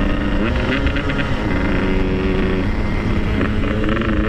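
Yamaha RX-King single-cylinder two-stroke motorcycle engine running on the move, its note rising and falling several times with the throttle.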